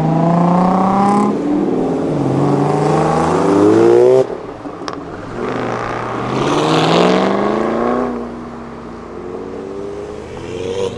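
Car engines accelerating hard: one climbs in pitch, drops with an upshift about a second in, climbs again and cuts off abruptly about four seconds in. Then a second car accelerates with a rising engine note and fades.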